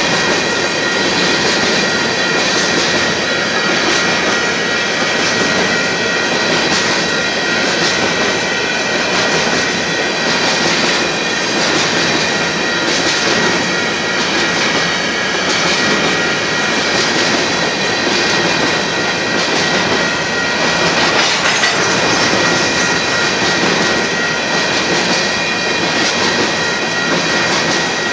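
A long train of covered hopper cars rolling steadily past, with the continuous noise of steel wheels on the rails. A few faint high tones ring steadily over the wheel noise.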